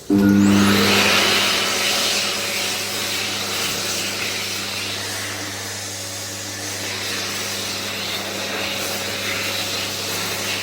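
Airforce hand dryer starting suddenly and running at full blast: a loud rush of air over a steady low motor hum, loudest just after it starts, then easing a little and holding steady.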